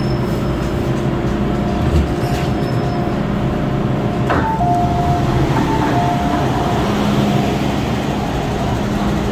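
Cabin noise of an MTR M-Train electric multiple unit running, with a steady rumble of wheels and motors. About four seconds in there is a click, and after it a few steady, higher whine tones from the traction equipment come and go.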